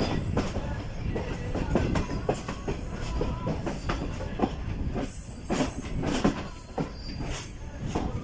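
Passenger train rolling into a station. Its wheels knock repeatedly over the rail joints over a low rumble, and high wheel or brake squeals come and go.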